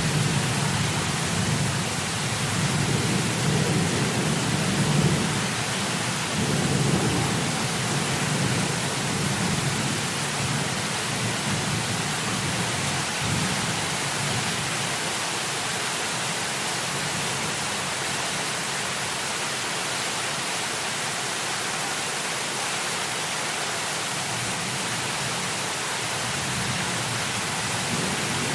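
Heavy, steady rain hissing, with low thunder rumbling in swells through roughly the first third and starting up again at the very end.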